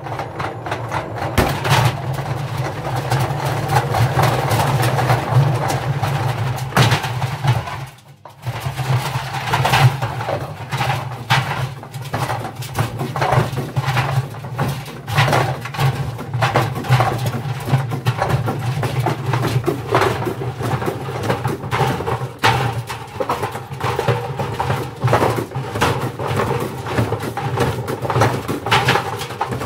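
Indesit washing machine running with heavy bricks loaded in its drum: a steady motor and drum hum with the bricks banging and knocking irregularly against the drum and cabinet. The sound cuts out briefly about eight seconds in and then resumes.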